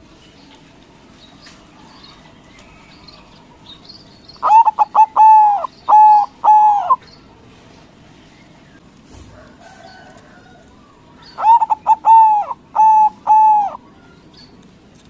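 White zebra dove (perkutut) cooing its song twice, about seven seconds apart. Each phrase is a quick stutter of short notes running into a few longer, level coos, and lasts about two and a half seconds.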